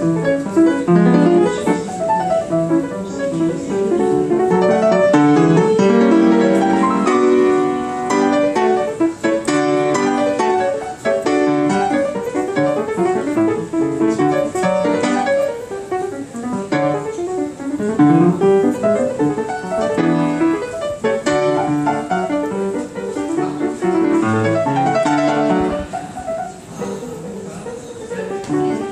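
Solo piano playing a lively rag: a dense run of quick notes with a bass line, continuous throughout.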